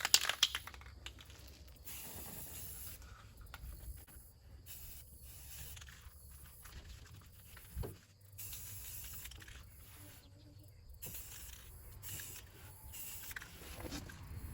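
Aerosol spray paint can hissing in short bursts, about half a dozen of them with pauses in between, as paint is sprayed along a traced outline.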